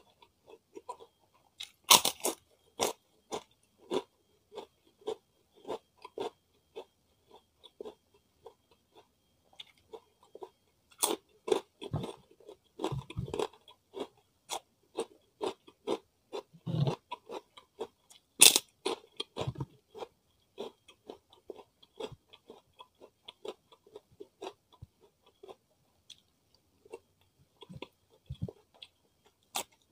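Close-miked crunching and chewing of crisp fried crackers (kerupuk) and raw cucumber. Loud crisp bites come about 2 s in, about 11 s in and near 18 s in, with a steady run of softer crunching chews between them.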